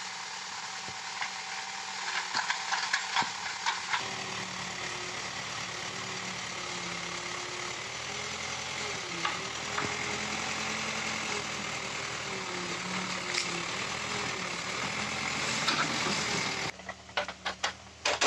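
Case backhoe's diesel engine running as it digs, its pitch dipping and recovering several times under changing load, with scattered sharp knocks. Near the end the engine sound drops away abruptly, leaving a short run of sharp clicks.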